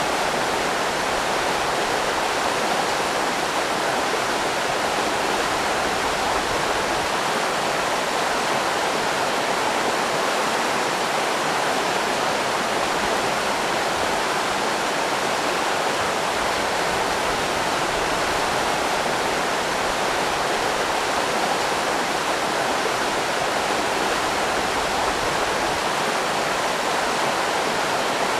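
River rapids rushing: a steady, unbroken sound of white water.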